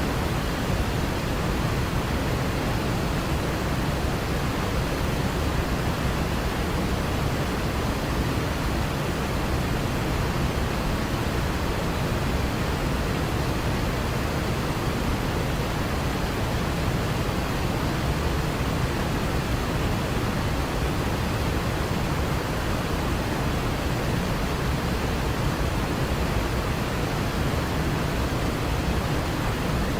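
Waterfall's steady rush of falling water: an even, unbroken wash of noise, heaviest in the low range.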